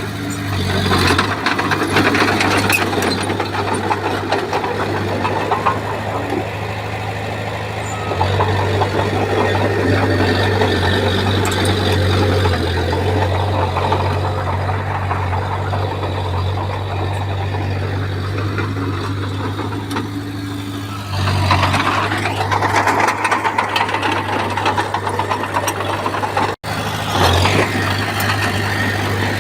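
Bulldozer's heavy diesel engine running under load, its note shifting as the work changes, turning louder and rougher about two-thirds of the way through. A sudden, very brief drop-out comes shortly after.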